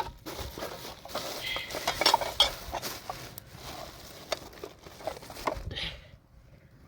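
Irregular clattering and knocking of objects being handled, dying away about six seconds in.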